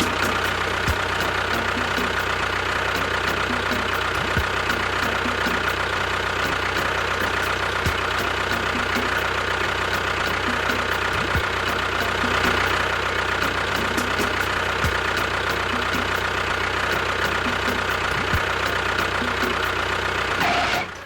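Tractor engine running steadily at idle, with a fast, even ticking over a low hum. It starts abruptly and cuts off at the end.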